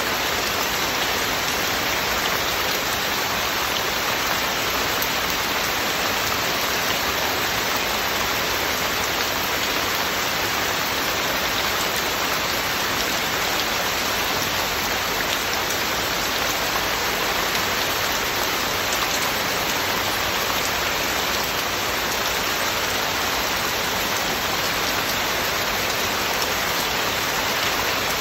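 Heavy rain falling steadily, a dense even hiss of drops with no thunder and no distinct separate sounds.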